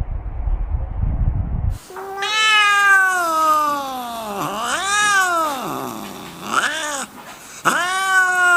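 A cat yowling: about four drawn-out calls that slide down and up in pitch, the first starting about two seconds in. Before them is a low rumbling noise.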